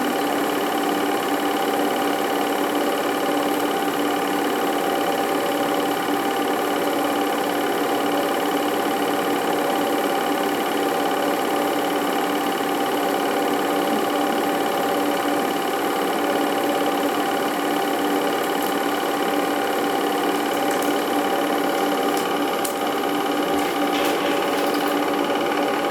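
Film projector running steadily, a continuous mechanical whirr and clatter of the mechanism with a steady hum.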